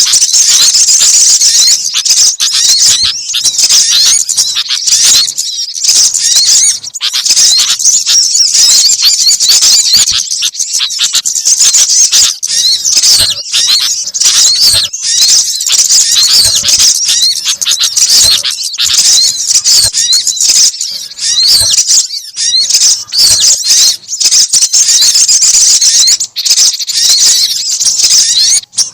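Bird-lure recording of several small birds calling at once: sogon, gelatik, kolibri (sunbird) and kutilang (sooty-headed bulbul) calls layered into a loud, unbroken stream of high-pitched chirping and twittering.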